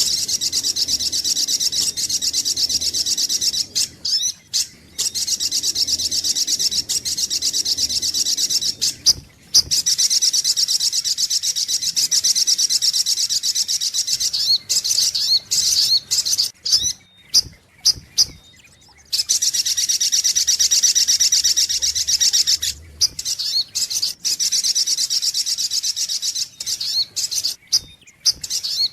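Sogok ontong (little spiderhunter) lure-call recording: long runs of rapid high-pitched chirps, many notes a second, broken by several short pauses and one longer pause about two-thirds of the way in.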